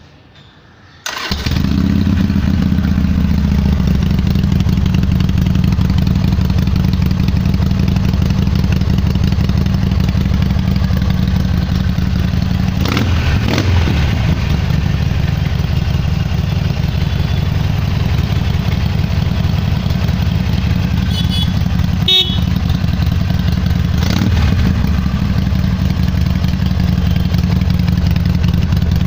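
Harley-Davidson V-twin motorcycle engine starting about a second in, then idling steadily.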